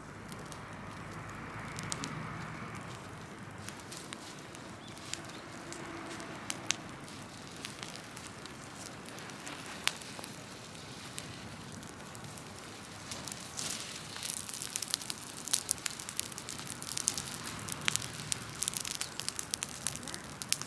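Large open-air fire of cut trees and branches crackling, with sharp pops scattered through that come much thicker in the second half.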